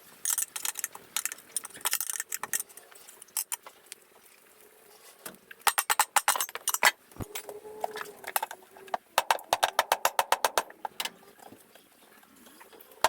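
Runs of rapid, sharp clicks in quick bursts, about ten a second at their fastest, with gaps of quieter noise between them.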